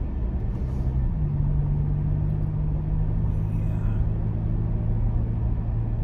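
Pickup truck engine idling, heard from inside the cab as a steady low hum; its pitch steps slightly about a second in.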